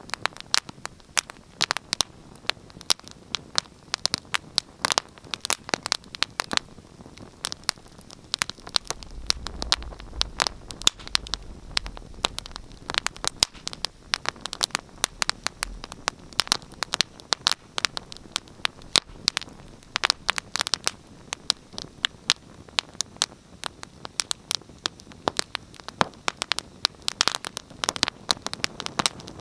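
Wood fire crackling and popping: a steady run of sharp, irregular snaps over a soft hiss, with a faint low rumble for a few seconds around the middle.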